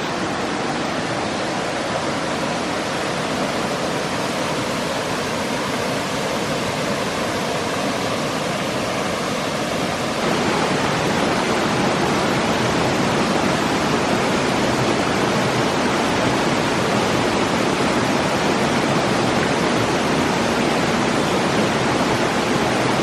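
Waterfall pouring: a loud, steady rush of falling water that grows louder about ten seconds in.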